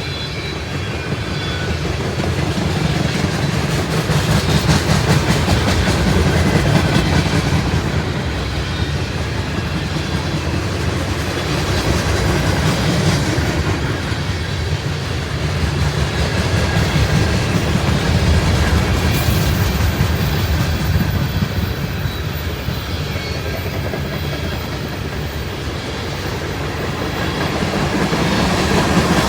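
Freight cars of a CSX manifest train rolling past at steady speed, their steel wheels clicking over the rail joints with a continuous low rumble that swells and eases.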